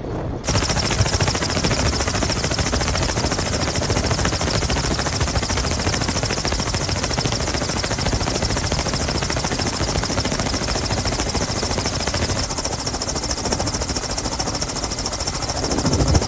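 A loud, rapid, steady mechanical rattle that starts abruptly about half a second in and eases slightly in level near the end.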